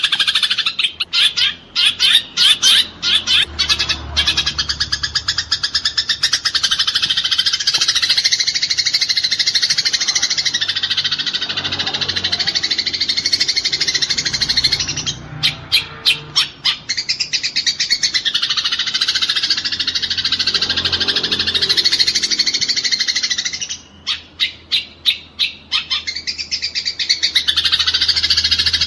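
Eurasian tree sparrows chattering fast and continuously, the dense quarrelling calls of fighting sparrows. Runs of sharp, separate chirps at about four a second break through about a second in, around fifteen seconds, and around twenty-four seconds.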